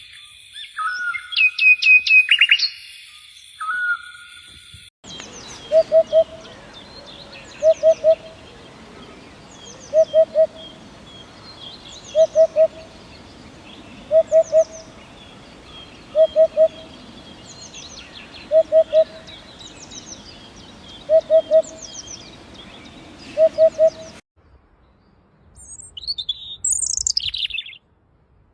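Eurasian hoopoe calling its low, soft three-note "hoop-hoop-hoop", repeated about every two seconds over faint high chirps from other birds. Before it come a few seconds of high, shrill whistled bird calls, and near the end a short, high twittering song that falls in pitch.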